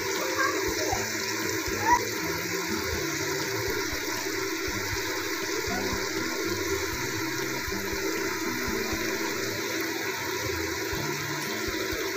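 Sliced onions sizzling in hot oil in a wok, a steady, even hiss.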